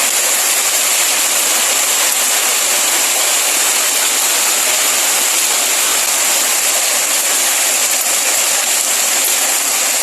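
Heavy rain and hail pouring down: a loud, steady, dense hiss of water and ice striking surfaces.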